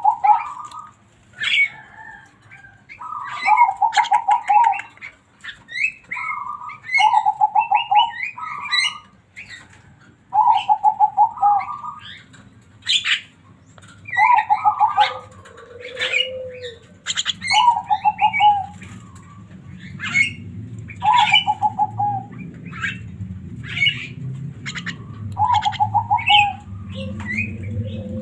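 Javan myna (jalak kebo) singing actively: the same short, rapidly stuttering phrase repeated about every three to four seconds, mixed with sharp clicks and higher chirps.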